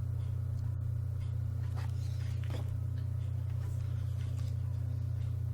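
A steady low hum, with a few faint soft rustles of paper as book pages are handled.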